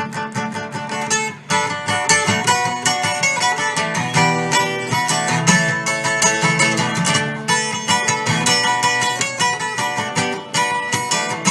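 Instrumental break of a live country-punk song: guitar played with quick picked and strummed notes.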